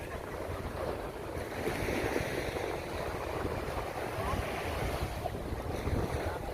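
Sea surf washing onto a beach in a steady rushing noise, with wind gusting on the microphone as a fluttering low rumble.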